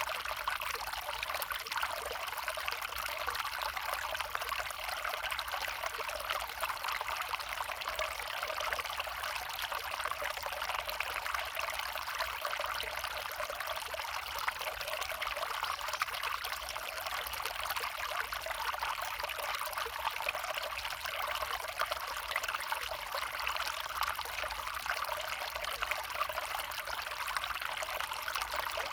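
A small stream trickling and flowing steadily, an even running-water sound with no breaks.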